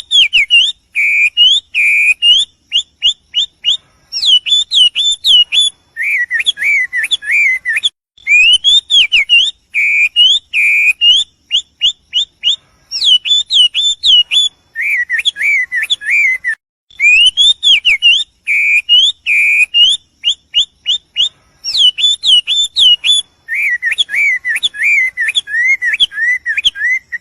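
A songbird singing clear whistled phrases of quick up-and-down notes, separated by short pauses, with the same sequence of phrases coming round again about every eight seconds.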